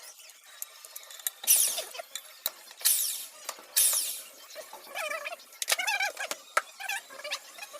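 Hand tools and metal engine parts during a diesel engine teardown: three loud scraping, ratcheting bursts in the first half, then squeaky, wavering metal-on-metal sounds and light clicks.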